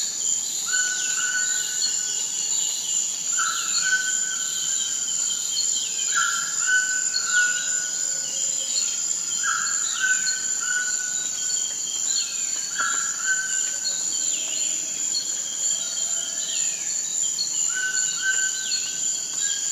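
Forest ambience: insects keep up a steady high-pitched drone, over which short calls repeat every second or two, mixed with falling whistled notes.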